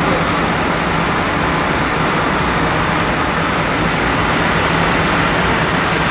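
Bus engines idling at a bus station bay: a steady drone with a constant low hum.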